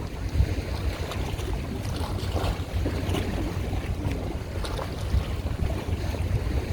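Wind buffeting the microphone, with water sloshing and splashing against a boat and a steady low rumble underneath.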